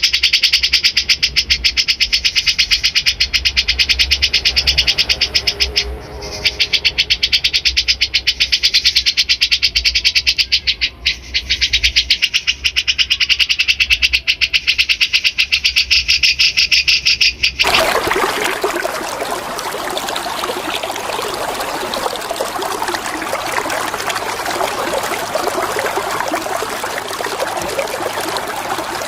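A caged songbird's high, rapid chattering call, repeated many times a second with a low hum underneath and two brief breaks. A little over halfway through it cuts off abruptly to the steady sound of running water.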